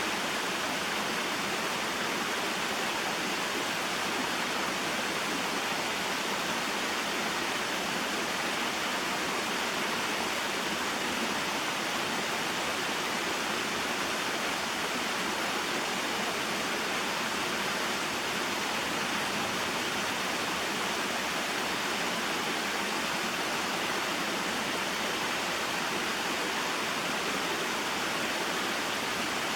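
Small waterfall and mountain stream: water pouring and flowing in a steady, unbroken rush.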